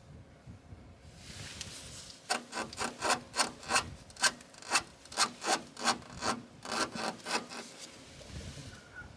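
Rapid back-and-forth scraping strokes made by hand, about four a second, after a softer rubbing start, stopping about eight seconds in.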